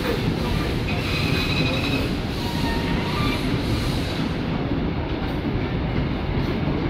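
Steam-hauled train rolling out along the track, with a steady rumble and brief thin squeals from the wheels about a second in. The hiss fades a little after four seconds as it draws away.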